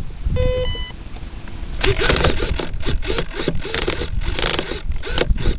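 A short electronic tone as the RC A-10 is powered back up, then repeated harsh buzzing, grinding bursts from its control servos as they are worked: the servo gears are stripped and the left servo has failed.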